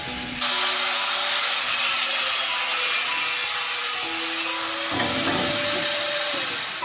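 High-speed electric power tool running with a loud rushing noise and a high whine. The whine dips in pitch about halfway through, recovers, then falls away near the end as the tool is switched off.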